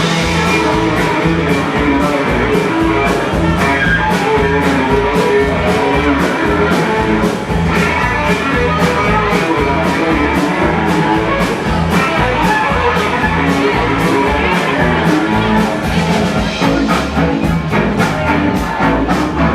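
Rock band playing an instrumental passage with guitar and drums, a steady driving beat throughout.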